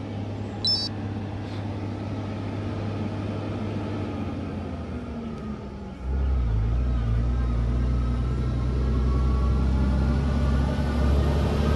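Heavy truck engine running close by on the road, a steady low hum that suddenly grows much louder about six seconds in and stays loud.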